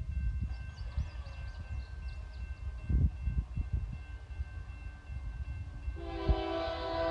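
A Union Pacific diesel locomotive's air horn starts blowing about six seconds in, a steady multi-note chord that is held, over a low uneven rumble.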